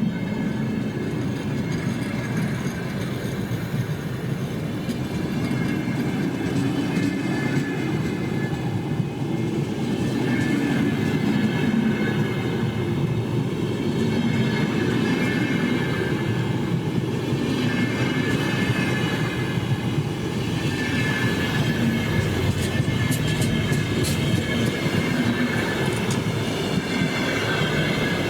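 A train rolling past close by, with a steady rumble of wagons on the rails, wavering high wheel squeal and some rail clatter. A few sharp clicks come in past the middle.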